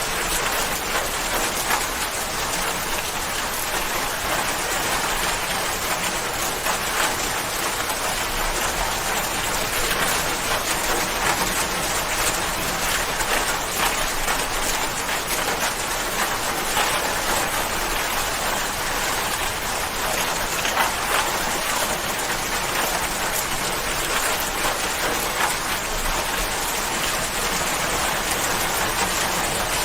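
Steady rain falling, an even hiss made of many small drop impacts.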